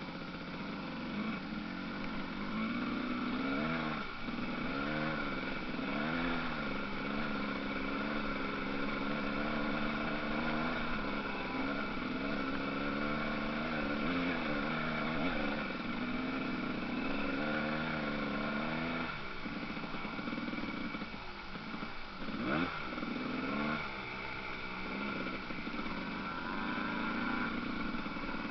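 Motocross motorcycle engines revving, the pitch rising and falling again and again as the throttle opens and closes. There is one sharp knock about three-quarters of the way through.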